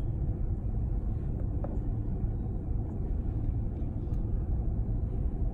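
Long freight train rolling past a crossing: a steady low rumble of the cars' wheels on the rails, heard from inside a waiting car.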